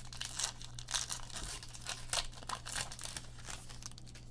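Trading cards and their pack wrapping being handled: a quick, irregular run of short papery swishes and crinkles.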